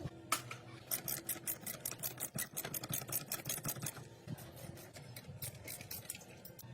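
A quick, irregular run of sharp small clicks and light taps, densest in the first few seconds and thinning out later, over a faint low steady hum.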